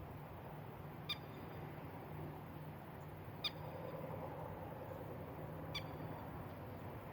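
A bird's short, sharp chirp call, given three times about every two and a half seconds, over a faint steady low hum.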